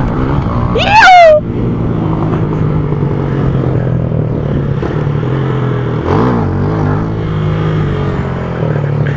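Motorcycle engine running steadily under way, with a brief rise and fall in engine pitch a little after six seconds. About a second in, a short, loud, high-pitched sound falls sharply in pitch.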